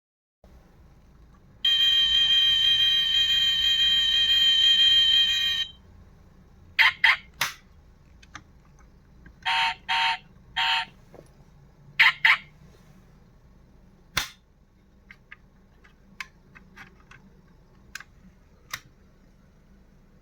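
Die-cast toy Mercedes G-Class's electronic sound module: a steady buzzing electronic tone for about four seconds, then short electronic beeps in groups of three, three and two, followed by a sharp click and a few faint plastic clicks.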